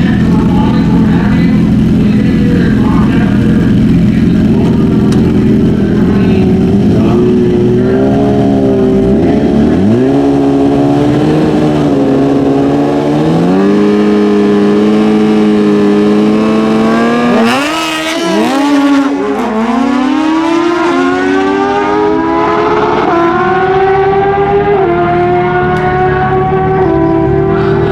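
Stock naturally aspirated drag-racing sportbikes at full throttle down the strip. A heavy low engine rumble gives way, about nine seconds in, to engine notes that climb and fall back again and again as each bike shifts up through its gears.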